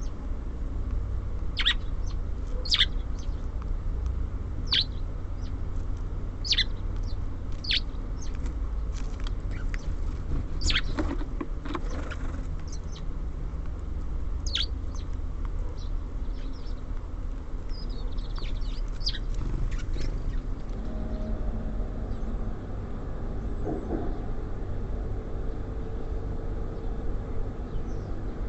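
Small songbirds giving short, sharp chirps, one after another through the first two-thirds and thinning out near the end, over a steady low rumble.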